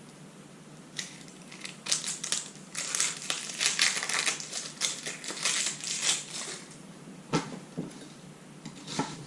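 Kitchen knife chopping an onion on a cutting board: a few single cuts, then a quick run of chops in the middle, then a few more single cuts.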